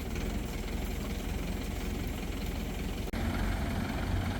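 Crane engine running steadily. It breaks off for an instant about three seconds in, then carries on a little louder.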